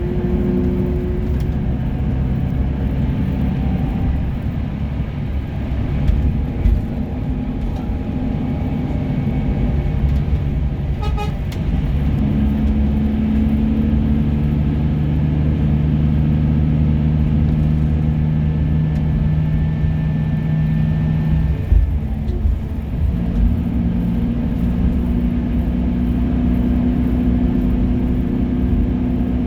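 Diesel bus engine running on the road, its engine note stepping to a different pitch a couple of times.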